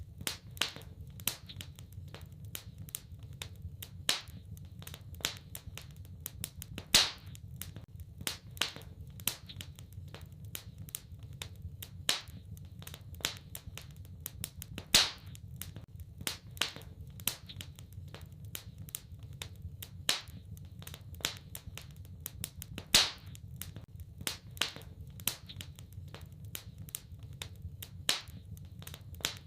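Wood fire crackling: a dense run of irregular small snaps, with a louder pop roughly every eight seconds, over a steady low rumble of the flames.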